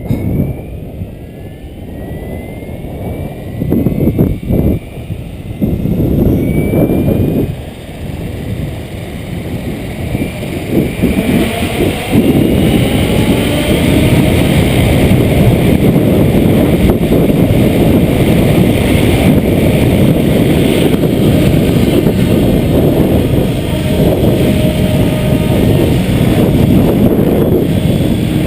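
Strong gusting wind buffeting the microphone, with the faint rising whine of a Trekker radio-controlled helicopter climbing above it in the first few seconds.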